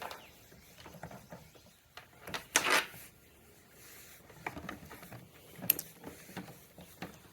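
Small clicks and knocks of hand tools and scooter parts being handled, with a brief rasping burst about two and a half seconds in.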